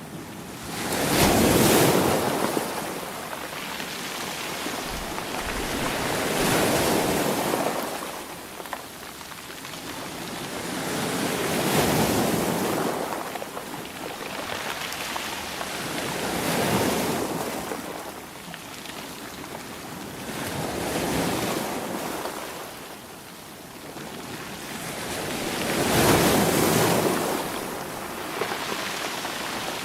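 Sea waves breaking and washing on a shore in slow, regular surges, about one every five seconds, each swelling up and then ebbing away.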